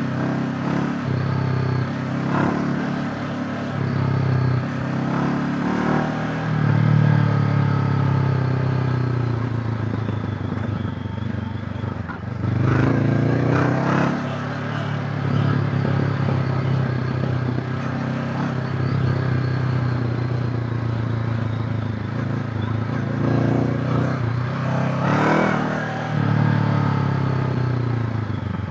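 Honda CB500X's parallel-twin engine running on the move, its pitch rising and falling several times as the throttle opens and closes.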